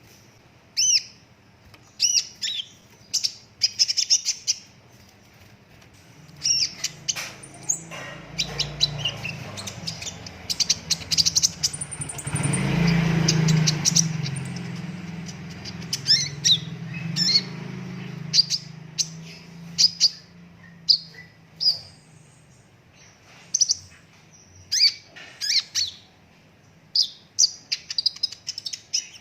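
A konin (kolibri ninja sunbird) singing in quick, high, sharp chirps and rapid trills. A low rumbling noise swells in the middle and is loudest about halfway through.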